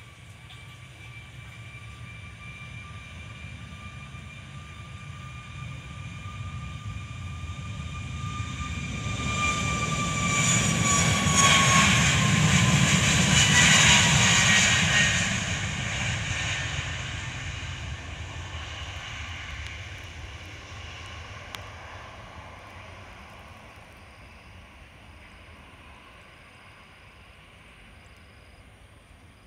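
Jet aircraft passing by: its engine noise swells to a peak about halfway through and then slowly fades, with a high whine that drops in pitch as it goes past.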